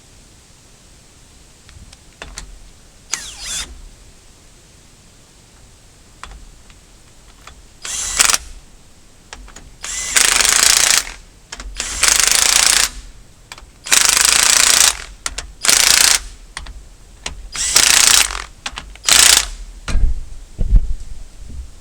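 A power tool run in repeated short bursts about a second long, about eight of them, starting in the second half; a few lighter clicks and knocks come before.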